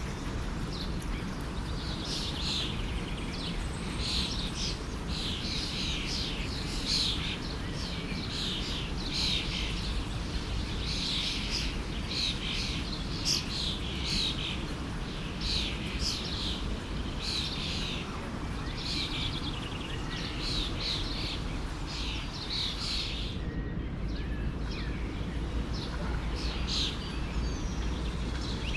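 Many small birds chirping and singing in quick overlapping calls, over the steady rush of a flowing forest stream. The chirping thins out about three-quarters of the way through.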